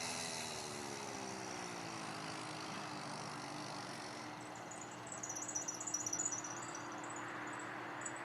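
Small motorbike engine running, its pitch falling over the first few seconds as it slows or pulls away, then holding a steady drone. High chirping sounds come in briefly about five seconds in.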